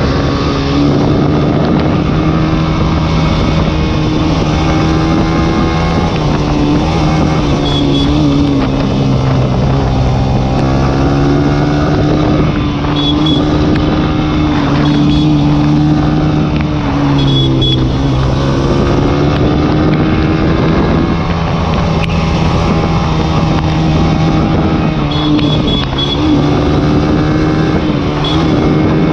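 Small single-cylinder sport motorcycle engine pulling hard uphill. Its pitch sags and climbs again a couple of times as the rider changes throttle and gears.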